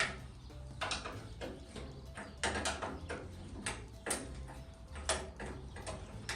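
Hand tools working on bolts on the truck: a dozen or so sharp metallic clicks and knocks at irregular spacing over a low steady hum.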